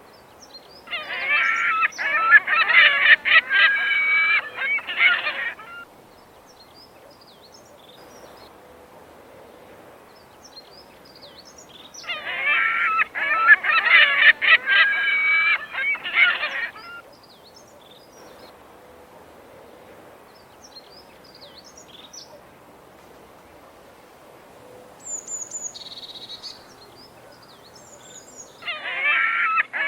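Black-billed magpies calling in harsh, rapid chattering bouts of about five seconds each, three times roughly ten seconds apart, with faint short chirps between the bouts.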